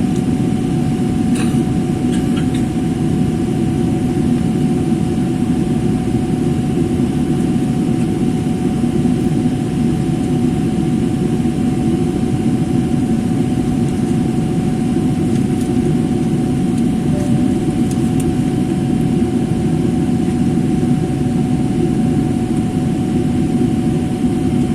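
Airliner cabin noise: the steady roar of the engines and airflow inside the passenger cabin, with a faint steady whine above it.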